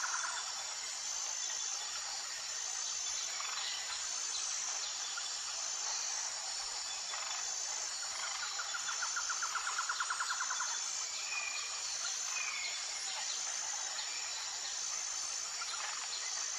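Tropical forest ambience: a steady high-pitched insect chorus that pulses at an even beat, with a rapid trill lasting about three seconds in the middle and a few short bird whistles after it.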